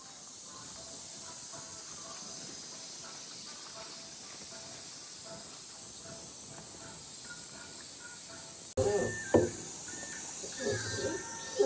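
Insects shrilling in a steady summer chorus, with faint short repeated chirps under it. About nine seconds in, the sound changes abruptly to louder sounds with people's voices.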